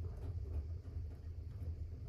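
Fire burning in a fireplace: the flames give a steady low rumble, with a few faint crackles.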